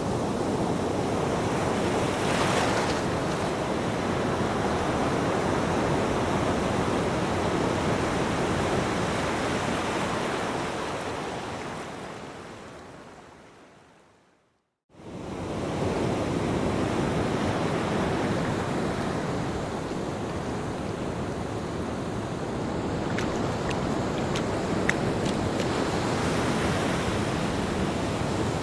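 Ocean surf washing on a beach, a steady rush with some wind. About halfway through it fades away to a moment of silence and then swells straight back in.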